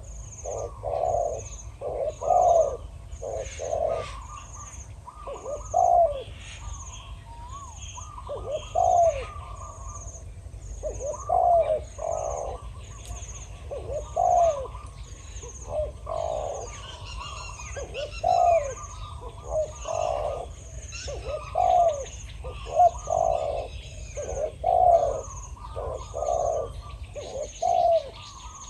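Spotted doves cooing in repeated phrases, a loud-voiced wild dove and a caged decoy dove calling back and forth. A faint high chirp repeats about every second and a half behind them.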